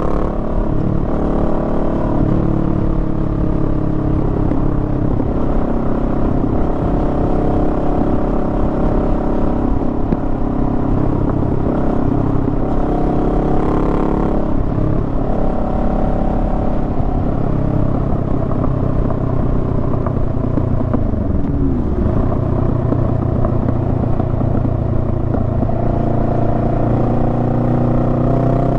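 Honda Rebel 500's 471 cc parallel-twin engine running under way, its pitch rising and falling with the throttle. A little past two-thirds through, the pitch drops and then climbs again. A steady low rumble of wind and road noise lies underneath.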